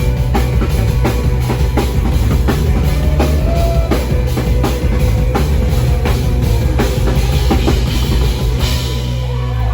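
Rock music played loud, with a drum kit keeping a fast, steady beat over a heavy bass line.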